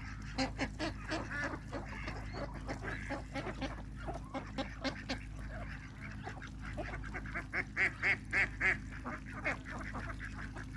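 A flock of ducks calling: many short quacks and honks in quick succession, a run of louder ones about seven to nine seconds in, over a steady low hum.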